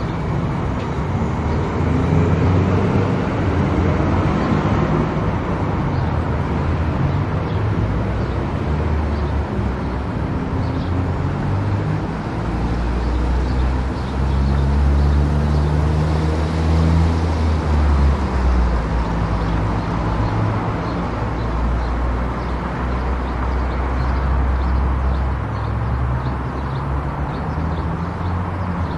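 Car driving on a highway: steady engine and road noise, with a low hum that shifts in pitch and level.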